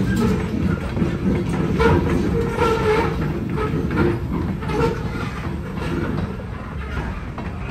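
Covered hopper cars of a freight train rolling past, steel wheels clacking irregularly over the rail joints above a steady rumble, getting a little quieter toward the end.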